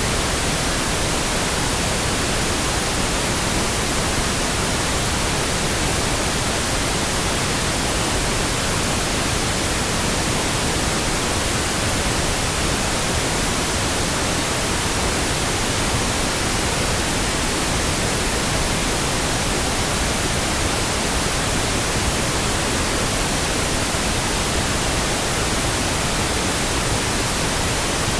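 Steady pink noise: an even, unbroken hiss with no changes or events.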